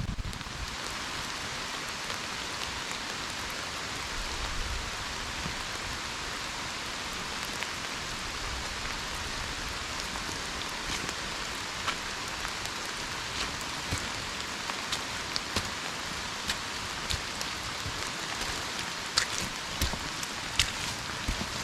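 Rain falling: a steady hiss with scattered sharper drop hits, a few louder ones near the end.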